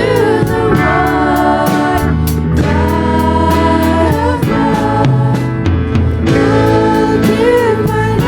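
Contemporary Christian worship music: voices singing over a band, with steady bass notes and regular drum and cymbal strokes.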